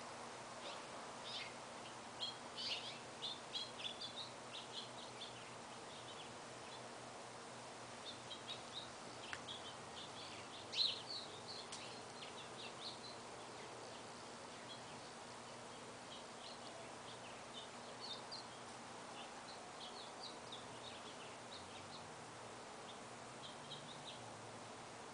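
Small birds chirping in quick runs of short, high notes over faint steady background noise, with the loudest chirp about eleven seconds in.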